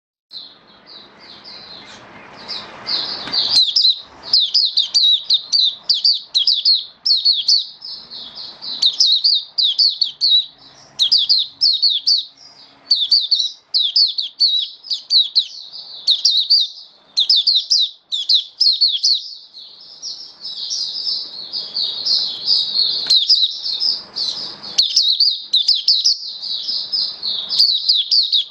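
White-eye (mata puteh) singing a long, rapid, high-pitched twittering song, its quick notes running on with hardly a break.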